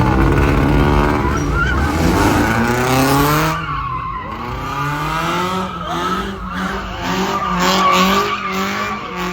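A car's engine revving hard while its tyres spin and squeal in a slide. The engine note climbs over the first few seconds, then holds high and wavers as the tyres keep squealing.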